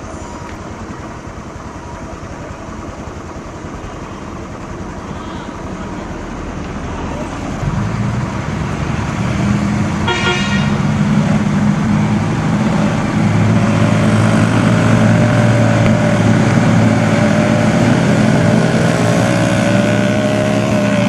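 Heavy truck engine running, growing louder and heavier from about eight seconds in, with a short horn toot about ten seconds in.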